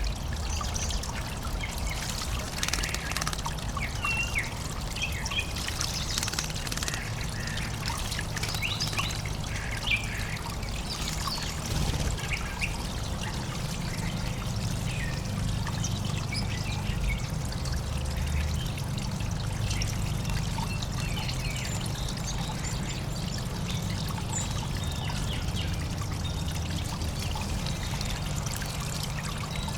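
Water trickling steadily in a backyard birdbath, with small songbirds chirping and calling now and then over it.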